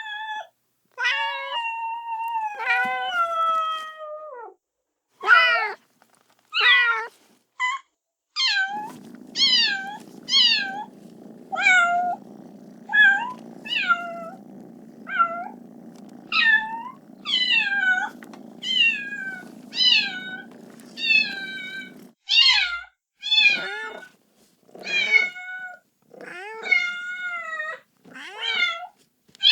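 Kitten meowing over and over, about one call a second, each call high and falling in pitch: a kitten calling for its mother. A steady low rumble runs under the meows from about nine seconds in until about twenty-two seconds in.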